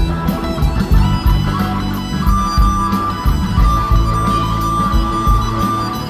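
Live blues-rock band playing, with guitar over bass and drums; about two seconds in a single high note enters and is held steady almost to the end.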